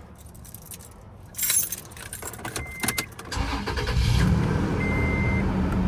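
Keys jangling and clicking, then the 2012 Toyota Tacoma's engine starts about three seconds in and settles into a steady idle. A single electronic chime beeps just before the start, then repeats about once a second.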